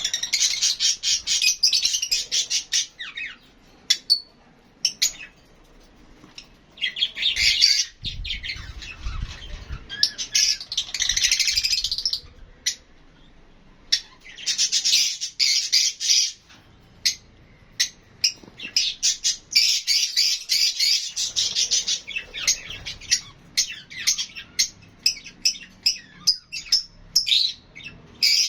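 Lovebirds chirping and squawking in fast, shrill bouts of a few seconds each, with short pauses between. There is a brief low rumble about eight seconds in.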